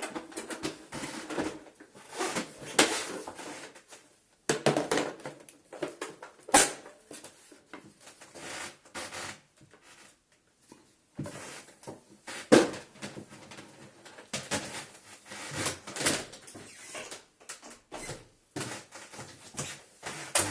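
Plastic housing parts of a Bosch Serie 2 bagless vacuum cleaner being handled and fitted by hand: irregular clicks, knocks and rattles, with two sharper knocks about six and twelve seconds in.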